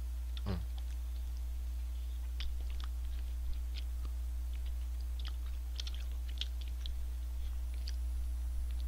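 A man biting into and chewing a McSpicy Shanghai Deluxe fried chicken burger, with faint irregular crunching and mouth clicks. A steady low electrical hum runs underneath.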